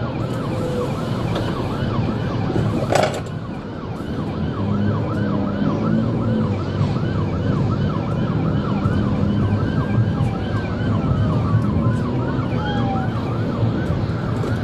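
Police cruiser sirens in a rapid yelp, sweeping up and down about three times a second, with a second, slower siren sweeping across it and engine and road rumble underneath. A sharp click sounds about three seconds in.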